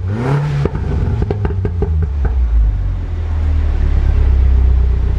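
F56 Mini Cooper S's turbocharged four-cylinder breathing through a Remus exhaust with the resonator deleted: a quick throttle blip at the start, popping and crackling as the revs fall, then settling into a steady low idle drone.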